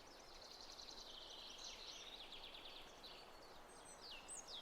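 Faint birdsong over a soft hiss: rapid chirping trills, then a few falling whistled notes near the end.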